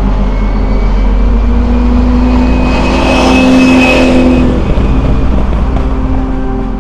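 Lamborghini Miura P400S's V12 engine as the car drives past, swelling to its loudest in the middle and then fading away.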